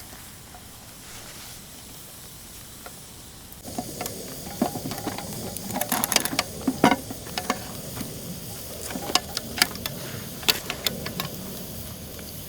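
Sizzling and crackling over a campfire: a faint hiss that grows louder about four seconds in, with scattered sharp crackles and clicks.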